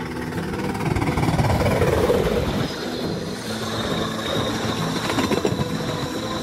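Coaches of the Molli narrow-gauge steam railway rolling past close by, wheels rattling over the rail joints. The noise swells about one to two seconds in, with a quick run of clickety-clack knocks near the end.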